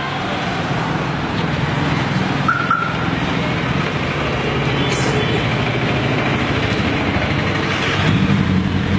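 Honda CBR sport bike's inline-four engine running steadily through its exhaust, with road traffic around it, growing louder near the end. A short double horn beep about two and a half seconds in.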